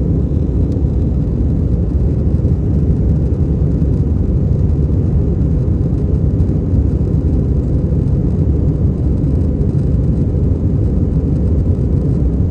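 Steady low rumble of airliner cabin noise, an even roar with most of its weight in the low end.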